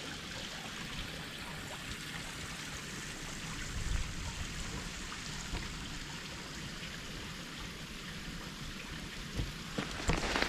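Creek water flowing with a steady, even rush. Footsteps on the forest floor start again near the end.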